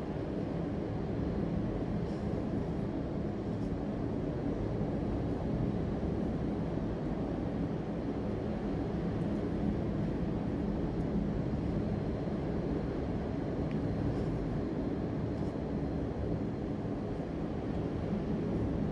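Steady low rumbling background noise that does not change, with no clear rhythm or breaks.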